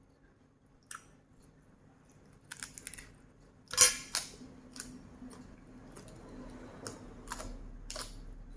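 Scattered clicks and knocks of kitchen utensils while pork is prepared, the loudest knock a little under four seconds in, over a faint steady low hum.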